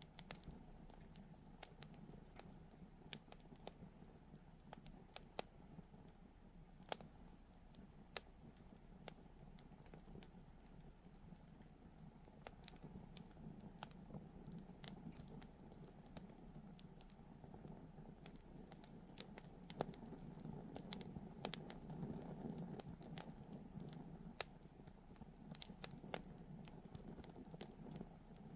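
Wood campfire burning quietly: irregular sharp crackles and pops over a low, soft rumble of the flames.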